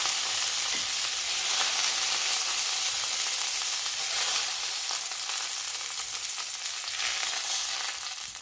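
Oil sizzling steadily in a frying pan as chicken seekh kebabs shallow-fry, easing off a little toward the end.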